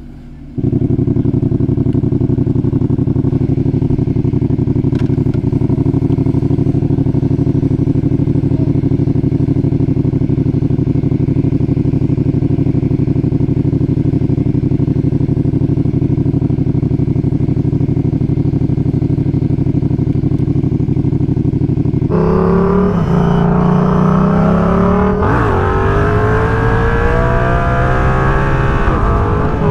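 Yamaha R7's parallel-twin engine running at a steady speed, then, about three-quarters of the way through, revving hard under acceleration, its pitch climbing and dropping back at each gear change.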